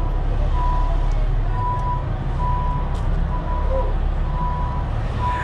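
A vehicle's reversing alarm beeping at a single pitch, about once a second, over a steady low rumble.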